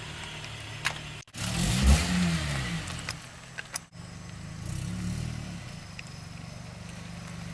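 Honda Civic's four-cylinder engine idling through a newly fitted replacement exhaust. It is revved up and back down once about two seconds in, then given a smaller blip around five seconds.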